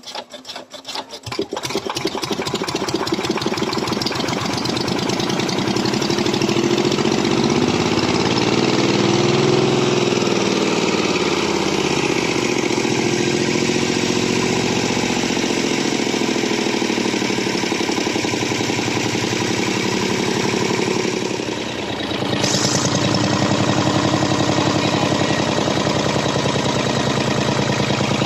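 Malticar M22 two-cylinder V-type diesel engine (800 cc) firing up, its separate firing strokes quickly running together into steady running. Its speed swells and eases in the first ten seconds or so; about 21 seconds in it briefly dips, then runs on steadily.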